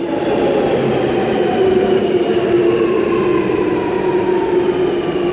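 Alstom Metropolis metro train pulling into the platform, its motor whine falling slowly in pitch over a steady rumble as it slows to a stop.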